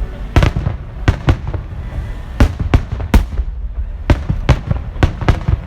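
Aerial fireworks shells bursting in quick, uneven succession: about a dozen sharp bangs, with a low rumble of echoes and further bursts between them.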